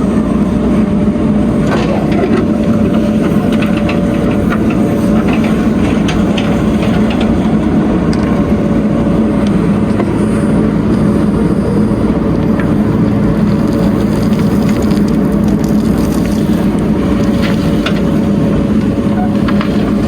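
Heavy diesel engine of earthmoving machinery running steadily, with a held whining tone and a few light clicks and knocks scattered through.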